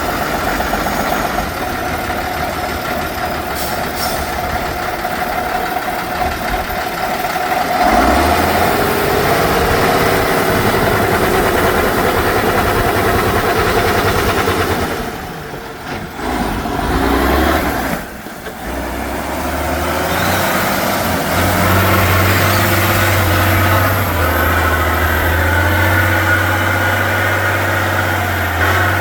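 Heavy off-road truck diesel engines running and revving up and down under load, with two short drops in level about halfway through.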